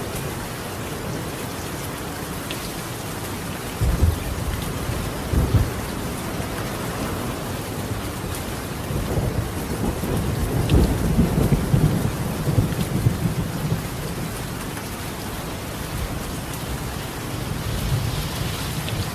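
Steady rain falling on a tiled roof, with thunder rumbling over it: two short sharp claps about four and five and a half seconds in, a long rolling rumble through the middle, and a weaker rumble near the end.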